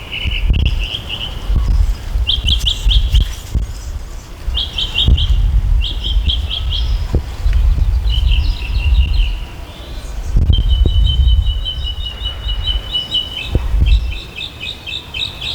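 Wind buffeting a microphone that has no windscreen, a low rumble that swells and fades in gusts. Over it a bird sings bouts of quick, high chirping trills, with one longer, steadier trill about two-thirds of the way through.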